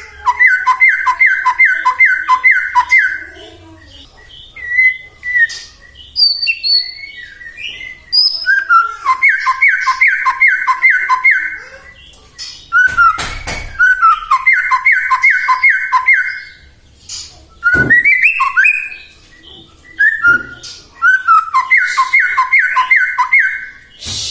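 White-rumped shama (murai batu) singing: four loud bursts of rapid, evenly paced notes jumping between a higher and a lower pitch, each lasting about three seconds, with short whistles and upward glides between them. A single sharp knock comes about halfway through.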